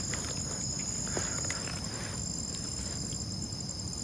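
Night insects, crickets among them, chirring steadily in high, shimmering pulses over a low rumble of background noise, with a few faint ticks.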